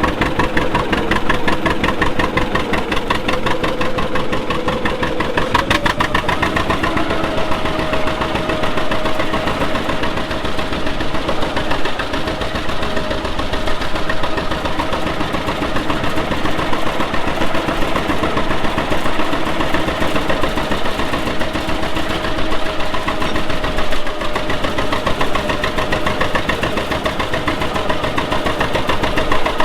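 Vintage tractor engine running steadily with an even, rapid firing beat, its speed picking up slightly about five seconds in.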